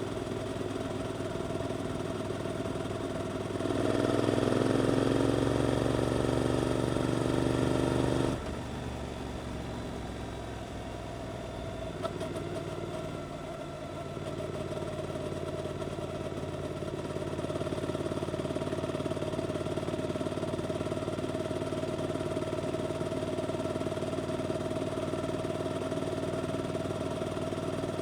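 Suzuki GSX-8S parallel-twin engine through an Arrows aftermarket exhaust, heard while riding. About four seconds in it gets louder and rises in pitch under acceleration for a few seconds, cuts off sharply, runs quieter for a while, then settles into steady running.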